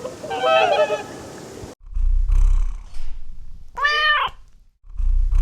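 Honking geese for the first second and a half, then a domestic cat: low rumbling purring with one rising-then-falling meow about four seconds in.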